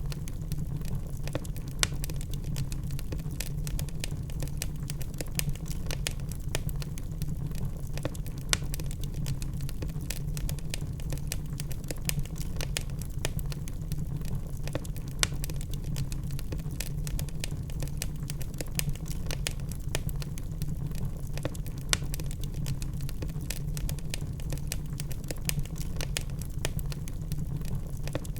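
Wood fire in a fireplace, logs crackling with frequent irregular small pops and a few louder snaps, over a steady low rumble of the burning fire.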